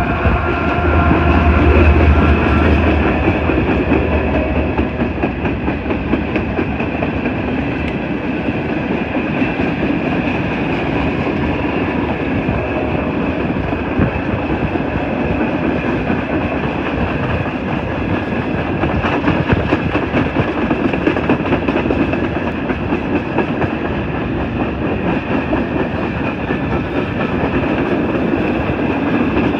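Empty CSX coal train rolling past, its empty coal cars rattling and clacking over the rails, with a low engine drone in the first few seconds.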